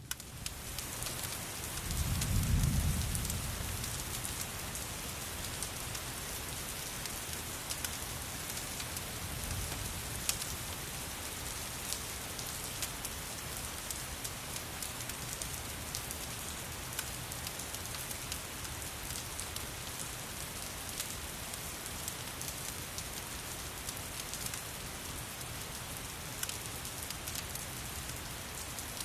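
Steady rain falling, with a low roll of thunder that swells and fades about two to three seconds in, and scattered sharp ticks throughout.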